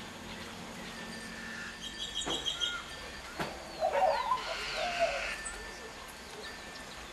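Several birds calling: a quick run of high repeated chirps about two seconds in, then a few high falling whistles, and lower wavering call notes around the middle.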